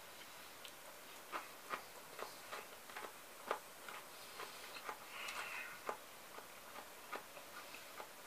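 Crisp crunching of fresh cucumber salad being chewed, a series of irregular sharp crunches about two a second, with a brief rustling noise a little past the middle.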